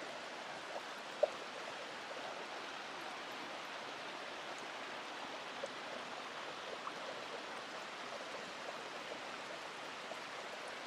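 Steady rushing of a mountain stream flowing and cascading over rocks at the top of a waterfall, with a few faint clicks, the clearest about a second in.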